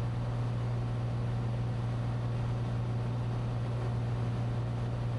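Cessna 182T's six-cylinder Lycoming engine and propeller droning steadily in flight, heard inside the cabin as a constant low hum with a rush of air noise over it.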